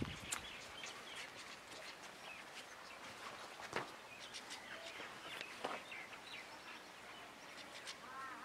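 Birds chirping faintly and on and off, short scattered calls over a light outdoor background hiss.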